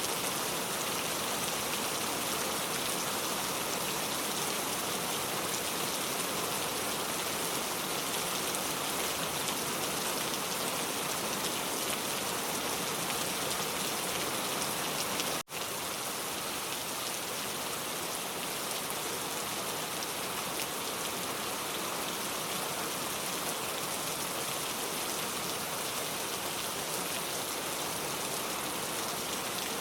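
Steady, even rainfall, drops pattering on a surface, with a split-second dropout in the sound about halfway through.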